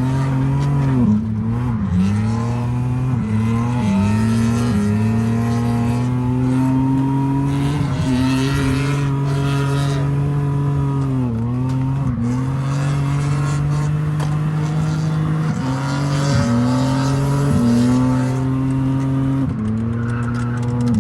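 BMW E36 drift car's engine held at high revs through a drift pass, its pitch dropping briefly and climbing back several times as the throttle is worked. Tyre squeal rises over the engine near the middle.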